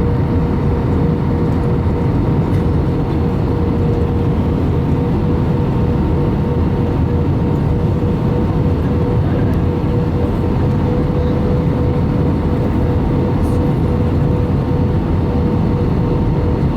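Steady cabin noise of an Airbus A318 airliner with its engines running, a constant loud rush with a steady hum held through it.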